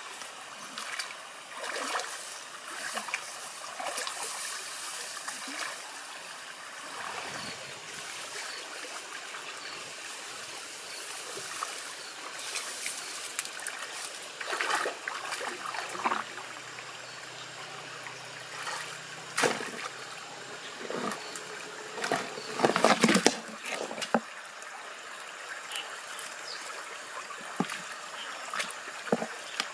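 Shallow water trickling and splashing, with scattered small splashes and a louder burst of splashing a little past the middle.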